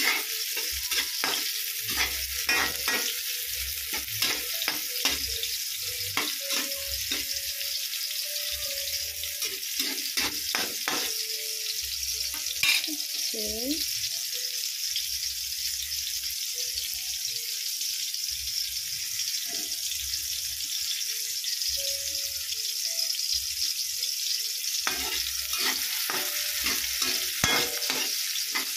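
Onions and tomatoes sizzling in hot oil in a wok, with a metal spatula scraping and knocking against the pan as they are stirred. The stirring pauses for about ten seconds midway, leaving only the sizzle, then starts again near the end.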